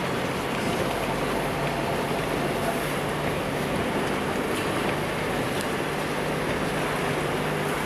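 Car driving through deep floodwater: the engine runs steadily under a constant wash of water against the car.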